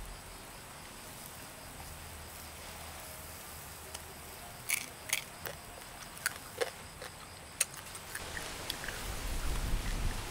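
Crisp crunching of a deep-fried scorpion being bitten and chewed: a handful of sharp crackles over about three seconds, midway through.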